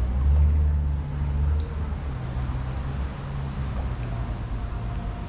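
Motorboat engine running at low canal speed, a steady low hum that is louder for the first second and a half, then settles a little lower.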